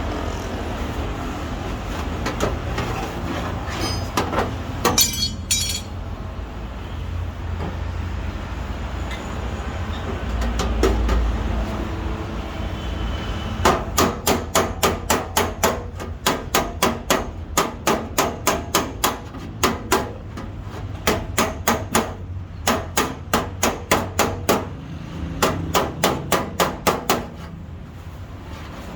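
A metal body hammer tapping on a car's sheet-metal door and fender panel, beating out dents. The sharp, ringing taps come in quick runs of about five a second with short pauses between them, and they start about halfway through over a steady low hum. A brief metallic clink sounds a few seconds in.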